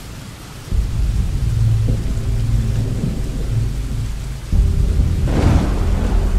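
Thunder rumbling over steady rain. A low rumble sets in about a second in, and a louder peal with a crackling crack comes near the end.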